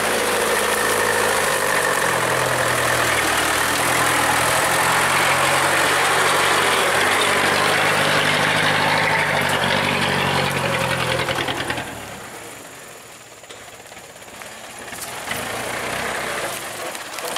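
Heavy truck's diesel engine running hard, its pitch shifting as it works. About twelve seconds in the sound drops away sharply to a much lower level.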